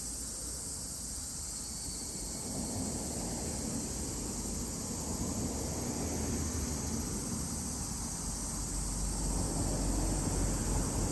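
Steady high-pitched drone of a summer insect chorus, with a low rumble underneath that grows louder toward the end.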